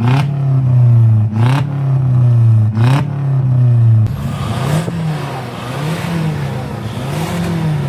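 A modified car's engine revved in three sharp blips about a second and a half apart, each marked by a crack, the revs falling away after each. In the second half it revs up and down more gently.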